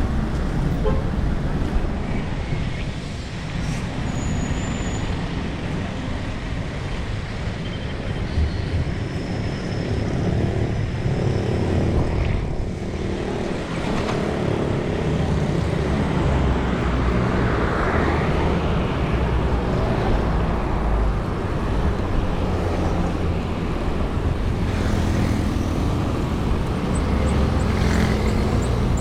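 Road traffic noise: passing cars and trucks with a steady low rumble.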